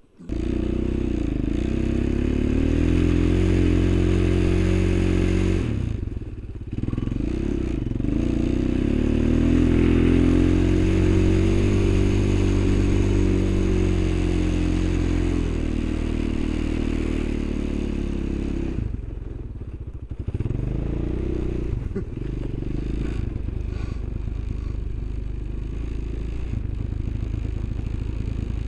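Off-road vehicle engine running under load while being ridden, its pitch rising and falling with the throttle, easing off briefly twice.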